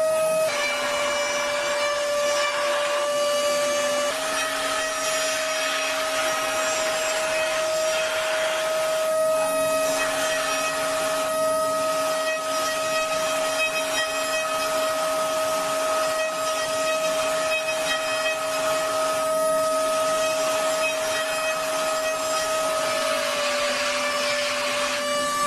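Metalworking machine tool running with a steady high motor whine over a rushing noise, its pitch stepping up slightly about four seconds in and dropping slightly near the end.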